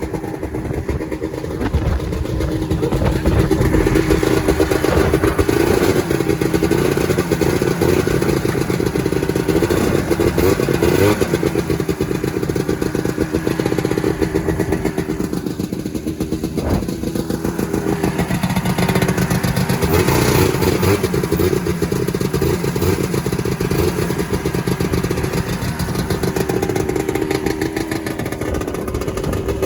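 Small two-stroke snowmobile engine running steadily, its revs rising and falling at times.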